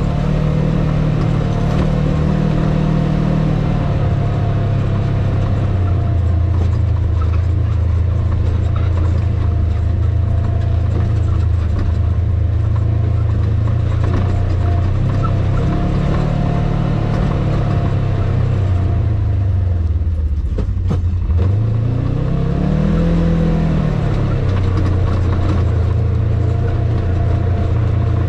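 Vehicle engine running while driving slowly on a dirt forest road. About two-thirds of the way through, the engine note drops, then rises and falls again as the revs change.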